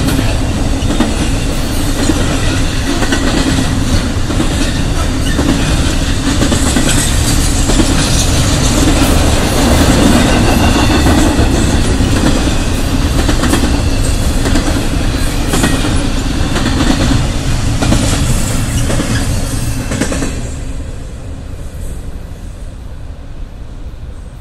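Intermodal freight train's container and trailer cars rolling past, a steady rumble with wheels clacking over the rail joints. About twenty seconds in the sound falls away as the last cars go by.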